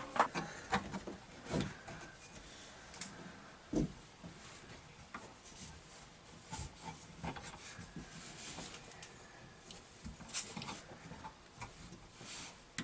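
Scattered light clicks, taps and rubbing from hand work on electrical wiring and tools, with one dull knock about four seconds in.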